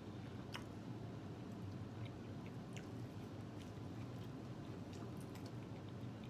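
Close-miked chewing of boiled corn on the cob, with scattered small wet mouth clicks from biting and smacking, over a steady low hum.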